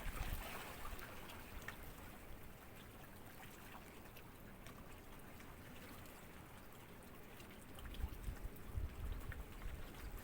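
Small sea waves lapping and trickling at the water's edge, a steady wash of water with little splashes and drips. A low rumble rises briefly at the start and again near the end.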